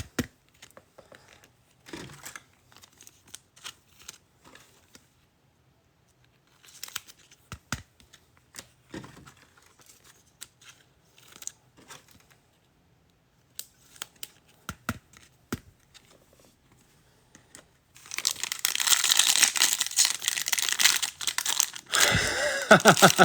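Trading cards being handled: scattered light taps and slides of cards. About eighteen seconds in, a loud crinkling and tearing as the wrapper of a card pack is ripped open.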